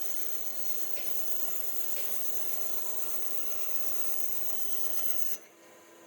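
A tool working wood with a steady scraping, rasping noise that cuts off abruptly about five seconds in.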